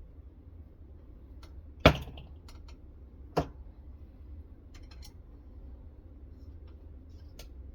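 Hard objects being handled: a sharp knock about two seconds in, a lighter one about a second and a half later, and scattered small clicks, as parts of a clamp-type knife sharpening setup are moved and set down.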